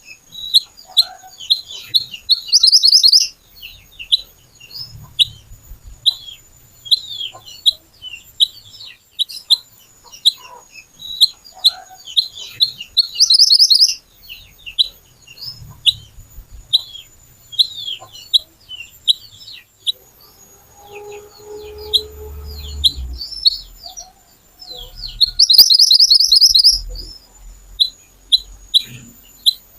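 Mantenan (kuniran) bird singing: a quick run of short, sharp, high chirps, several a second, broken three times by a loud rapid trill lasting about a second. About two-thirds through, a fainter, lower drawn-out call sounds briefly.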